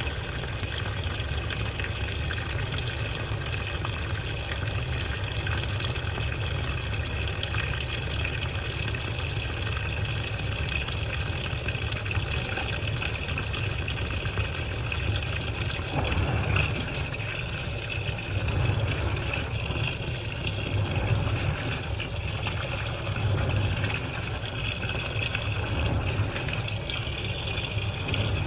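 Iris Ohyama washing machine running a wash: water sloshing and churning in the tub over a steady low hum, swelling and easing every few seconds in the second half.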